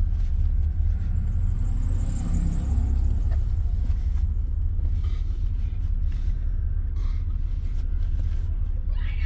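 Car driving along, heard from inside the cabin: a steady low road and engine rumble.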